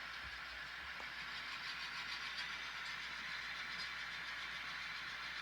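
Locomotive running steadily during a yard switching move: an even hiss-like running sound with no clear beat or sudden events.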